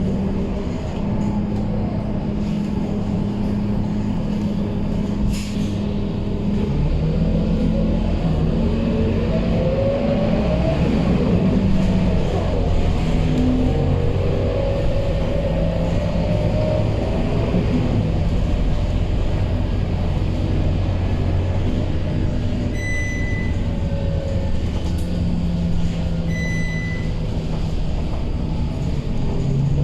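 Scania K230UB city bus in service, its diesel engine and drivetrain running steadily, with a whine that rises and falls as the bus speeds up and slows. About two-thirds of the way through come two short high beeps a few seconds apart.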